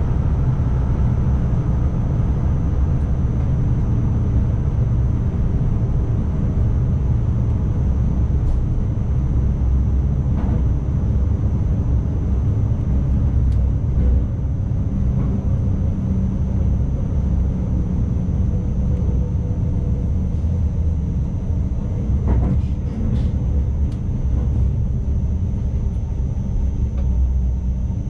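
Running noise of an ICMm (Koploper) electric intercity train heard from the driver's cab: a steady low rumble with a faint high whine and a few light clicks.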